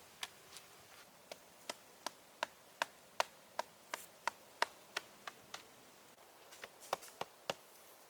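A tool chopping wood: a steady run of sharp knocks, about three a second, with a short pause about six seconds in before a few more strikes.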